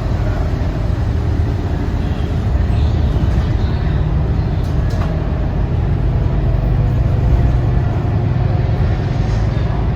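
Scania K230UB city bus under way: the 9-litre five-cylinder diesel engine running with a steady low rumble, together with road and body noise.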